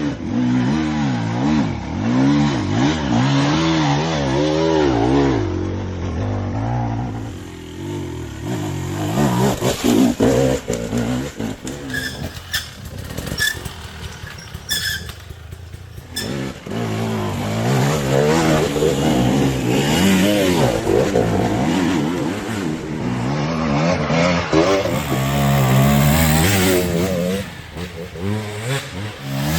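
Hard enduro motorcycle engines revving up and down over and over as the throttle is blipped, with a quieter lull about halfway through before the revving picks up again.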